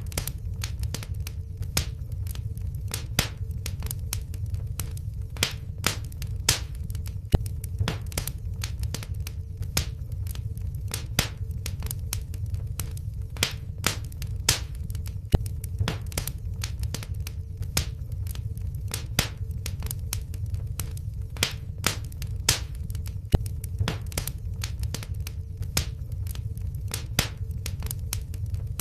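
Wood fire crackling in a fireplace: irregular sharp pops and snaps over a steady low rumble of burning, with a faint steady hum underneath.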